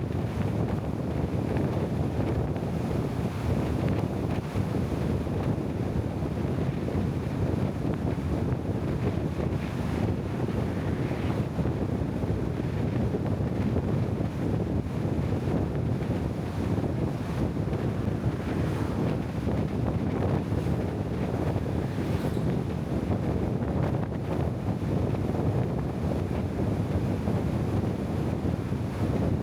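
Steady wind noise on the microphone with a continuous low rumble.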